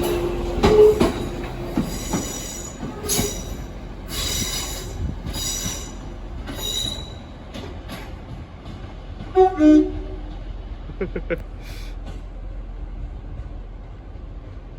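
Train moving through the station: steel wheels squealing in a series of high-pitched screeches over the first seven seconds, with a rumble underneath. A short, loud two-tone sound comes about nine and a half seconds in, then the rumble fades.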